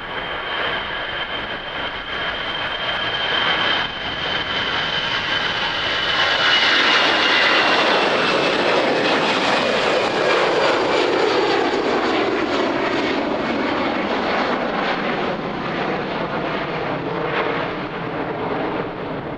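Jet airliner passing close by, its turbofan engines' high whine dropping slowly in pitch as it goes past. The sound builds to its loudest about halfway through, then slowly fades.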